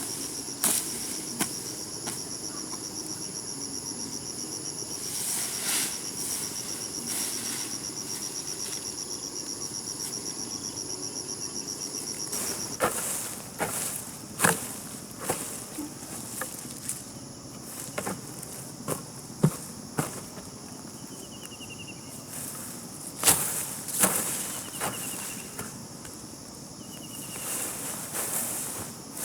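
Insects chirring: a high, fast-pulsed steady trill that stops about halfway through, over a fainter high hum. Scattered sharp knocks and scuffs come through it, and a few short falling chirps sound near the end.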